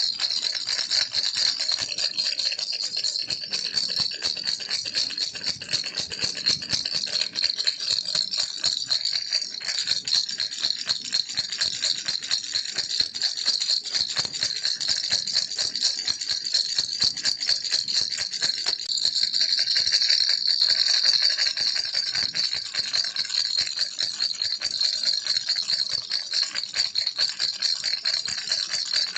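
Baby rattle shaken continuously, a dense, fast rattling of small beads or pellets that is bright and high-pitched.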